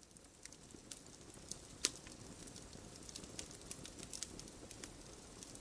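Crackling fire sound effect: a low steady rustle with irregular sharp pops and snaps, the loudest about two seconds in.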